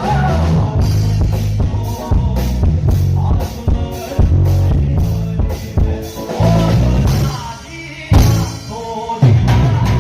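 Live band playing a Punjabi song, with drum kit, keyboard and percussion under a male lead vocal. The music drops back briefly a little past halfway, then the full band comes back in hard with the drums.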